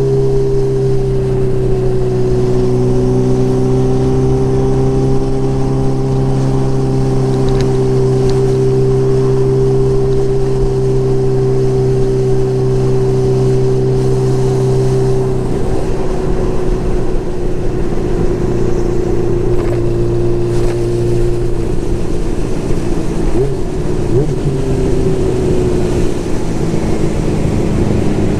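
Motorcycle engine running at a steady cruising speed, with its note dropping about halfway through and the revs rising and falling after that.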